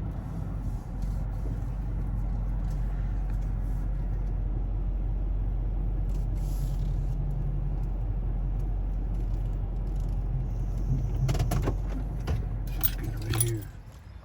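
Pickup truck engine running steadily at low speed while parking, a low rumble that stops near the end, with a few clicks and rattles just before it cuts off.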